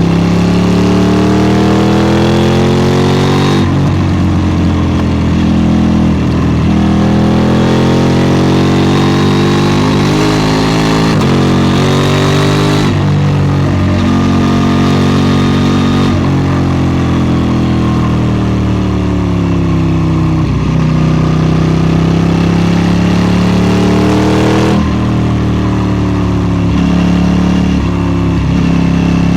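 KTM 790 Duke's parallel-twin engine under load while riding. Its pitch rises as it accelerates and falls as it slows, several times over, with sudden pitch changes about 3.5, 13 and 25 seconds in.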